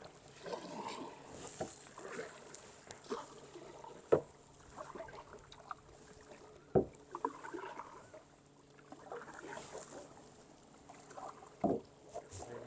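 Kayak paddle strokes dipping and splashing in the water, with three sharp knocks spread through that are the loudest sounds.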